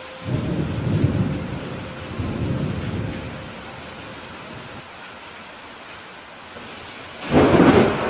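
Steady rain falling, with a low rolling rumble of thunder that swells just after the start and fades over about three seconds. Near the end a much louder, sharper thunderclap breaks out.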